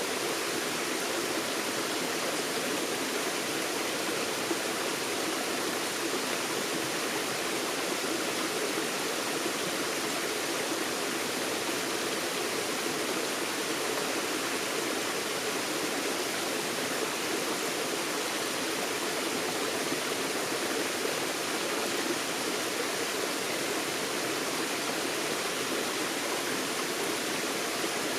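Forest stream running steadily, a continuous rush of flowing water over rocks.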